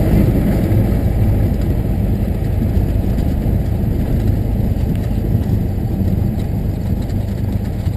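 Cessna 172's piston engine and propeller running steadily, mostly low-pitched sound, easing off slightly toward the end.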